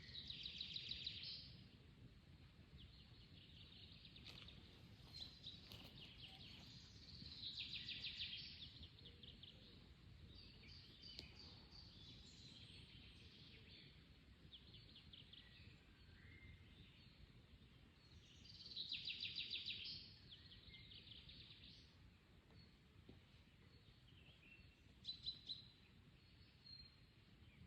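A songbird singing short, rapid trilled phrases, about four of them spaced several seconds apart, with softer chirps in between. The song is faint over a low background rumble.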